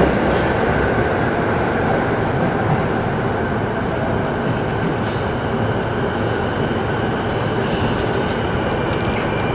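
Cabin noise of an electric commuter train arriving at a station: a steady dense rumble of wheels on track, with thin high-pitched squealing tones coming in about three seconds in and more joining about halfway.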